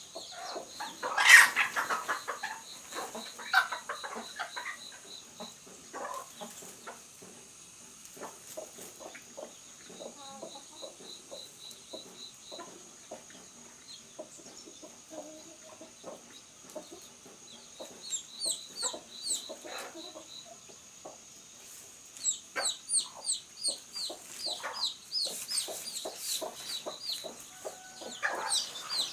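Chickens clucking, with repeated short, high cheeps, over scattered taps and knocks. A loud sudden noise comes about a second in.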